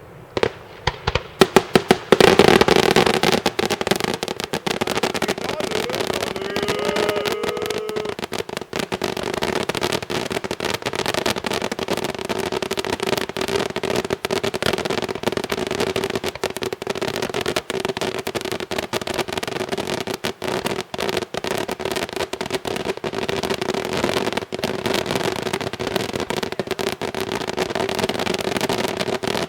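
Italian daytime fireworks: a few sharp bangs, the loudest about two seconds in, then a dense, continuous rapid-fire barrage of reports.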